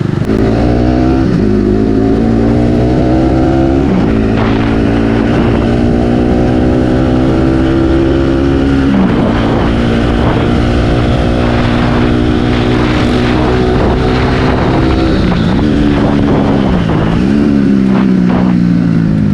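Bajaj Pulsar NS200's single-cylinder engine and exhaust under way, pulling up through the gears. The note climbs with brief drops at shifts about four and nine seconds in, then holds steady. Near the end it dips and rises twice before falling away.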